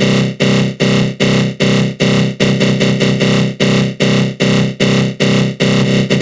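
Synthesized attack growl from the GMS synth in FL Studio Mobile, run through a flanger: a loud, harsh electronic tone that pulses steadily about two to three times a second, each pulse starting strong and fading.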